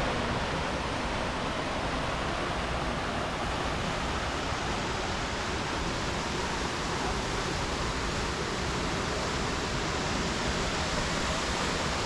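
Steady rush of a waterfall, an even wash of falling water with no change throughout.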